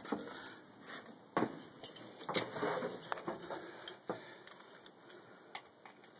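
Scattered small clicks, knocks and rustling as someone climbs into the truck's cab and handles things, with a light metallic jingle like keys.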